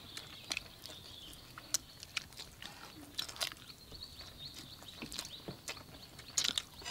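People chewing and biting into crispy sauce-coated fried chicken wings: scattered soft crunches and mouth sounds, with a few louder crunches near the end.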